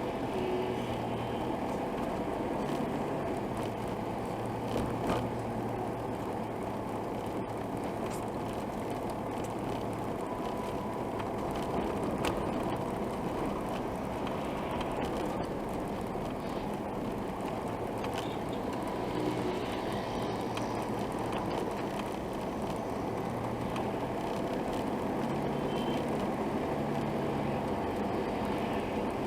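Steady motor-vehicle noise: a low engine hum over a constant rushing haze, with a few faint clicks.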